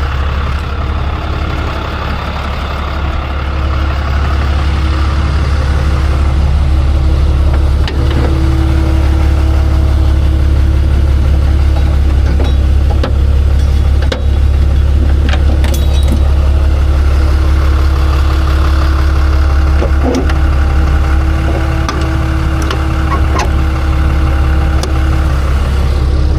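Tow truck's engine idling steadily, with a few brief clanks and knocks from straps and gear being handled.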